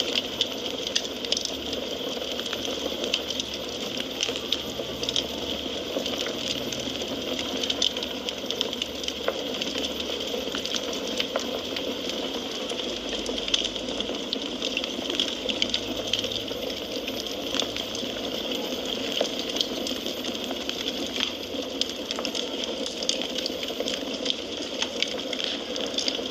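Wood fire crackling, with frequent small irregular pops and snaps over a steady hiss of burning.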